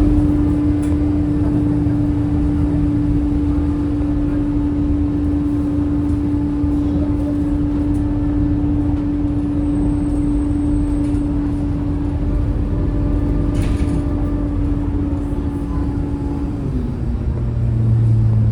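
Scania K230UB city bus running, a steady low diesel rumble with a steady whine over it; near the end the whine drops in pitch and a deeper hum swells.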